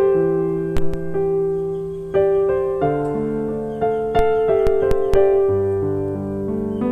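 Slow, gentle piano music: notes and chords struck every half second to a second and left to ring over a held low note. A few short, sharp clicks sound over it.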